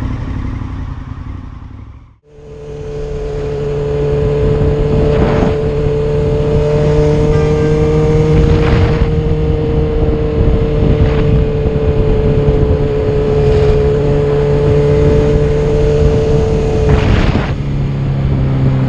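Motorcycle engine running at a steady speed, its pitch holding nearly level and sagging slightly, after a brief silence about two seconds in.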